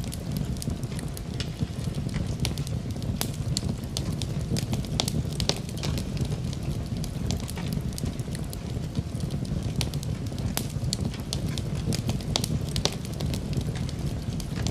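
Wood fire burning in a fireplace: a steady low rumble of the flames with many scattered sharp crackles and pops.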